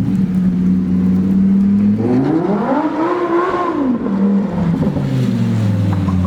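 Lamborghini Huracán Evo Spyder's V10 engine running steadily under way, then revving up in a smooth rising sweep about two seconds in and easing off again, its pitch falling lower near the end.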